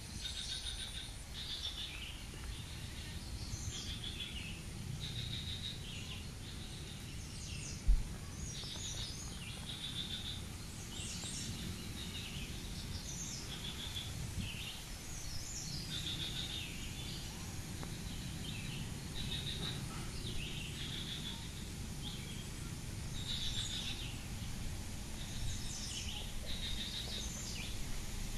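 Birds chirping and calling over and over, short repeated calls, over a low rumbling background noise. One sharp low thump about eight seconds in.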